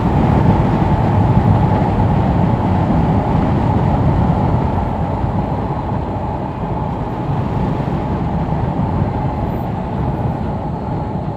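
Motorcycle on the move, heard from the rider's microphone: a steady rush of wind and road noise that gradually gets quieter.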